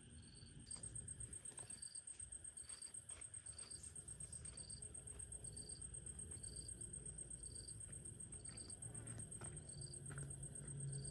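Insects calling: a continuous high, rapidly pulsing trill, with a lower short chirp repeating about every two-thirds of a second, plus a few faint ticks.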